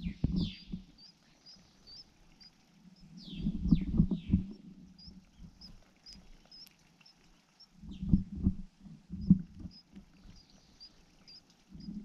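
Bursts of low thumps and rustling very close to the microphone, each lasting a second or two and a few seconds apart, as the adult bird shifts its body on the nest. A few short, falling chirps are heard near the start and again about three to four seconds in, with faint, high, short chirps repeating in the background.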